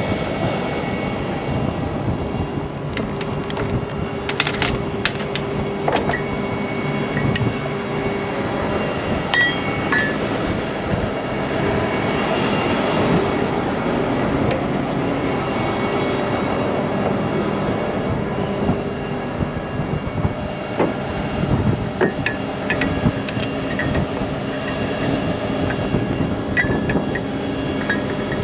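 A truck engine running steadily under repeated sharp metal clinks and clanks of chains and rigging hardware being handled, in bunches a few seconds in and again near the end.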